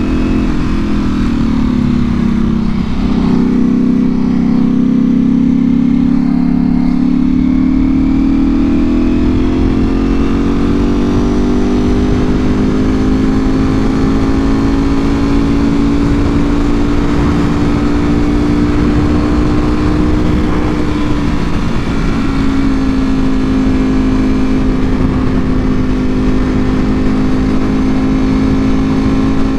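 2024 Ducati Panigale V4R's V4 engine through an Akrapovic full exhaust, running under way: the note falls in the first couple of seconds, climbs slowly for about ten seconds, then holds steady with a small dip about two-thirds through. A constant rush of wind noise lies underneath.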